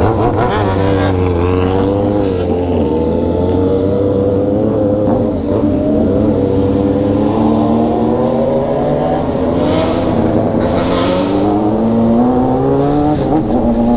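Sport motorcycle engine pulling away from a stop and accelerating through the gears. Its pitch rises and drops back several times with the shifts, then settles to a steady cruise near the end.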